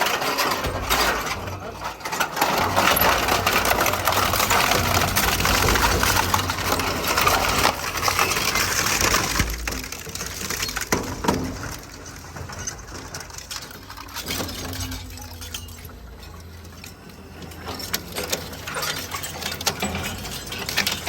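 Heavy-duty industrial refrigerator shredder tearing and crushing sheet-metal appliance scrap: a dense clatter of crunching and clanking metal. It is loudest in the first half, eases off about ten seconds in, and picks up again near the end.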